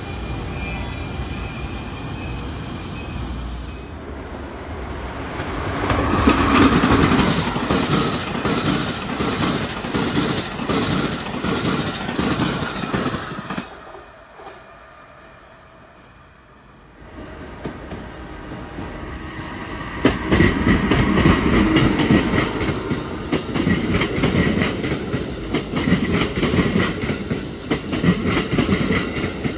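Passenger trains passing at restricted speed, their wheels clickety-clacking in quick sharp clicks over the rails: first an NJ Transit commuter train, then, after a quieter lull at about the halfway point, an Amtrak train of stainless-steel coaches, louder and clacking hard from about two-thirds of the way in.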